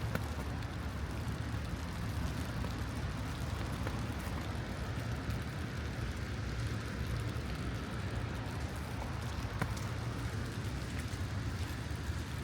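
Steady outdoor city ambience in light rain: an even hiss with a low rumble underneath and a few faint ticks.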